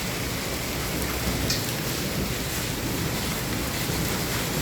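Heavy rain mixed with hail pouring down steadily, with a few faint sharp ticks.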